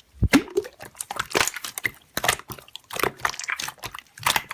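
Slime being squeezed and pressed by hand, giving an irregular run of crackly clicks and small pops, with a low thud near the start.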